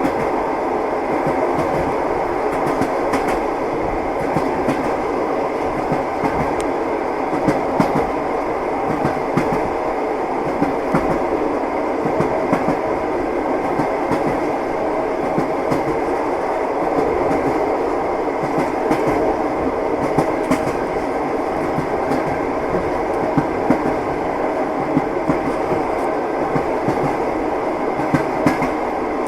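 Train wheels knocking over the rail joints as the train runs at a steady speed: a continuous rumble with irregular sharp clicks throughout.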